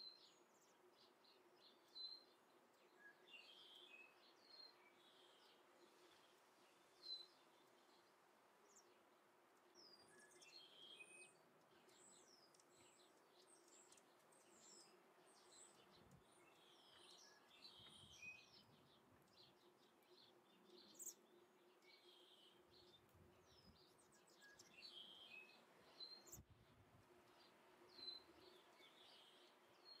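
Faint chirping of small birds: many short, high calls scattered throughout, over a steady low hum.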